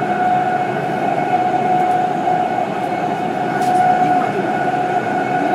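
BART train in motion, heard from inside the car: steady rumble and rail noise with a steady high-pitched whine over it.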